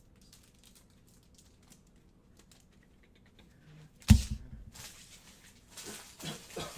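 Trading card packs and cards being handled on a table: light clicks and taps, a sudden loud thump about four seconds in, then louder rustling.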